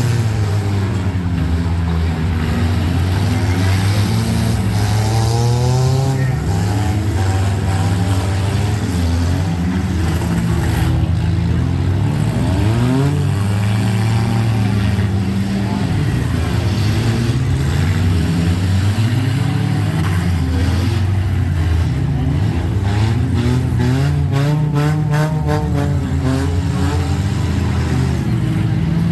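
Several demolition-derby compact cars' engines running and revving at once, their pitches rising and falling over each other. Scattered knocks come through, with a quick run of them a little before the end.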